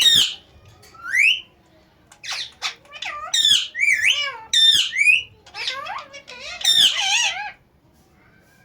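Ringneck parrot squawking: a sharp rising squawk at the start and another about a second in, then about five seconds of warbling, chattering calls that stop about a second before the end.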